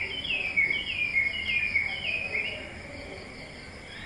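A bird calling in a quick series of high chirps, each dropping in pitch, about two a second, fading out about halfway through.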